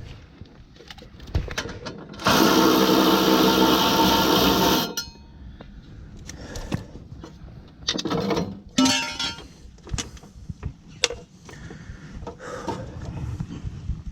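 A power tool on a bolt runs in one burst of about two and a half seconds, starting and stopping abruptly, among scattered clicks and knocks of hand tools and metal parts.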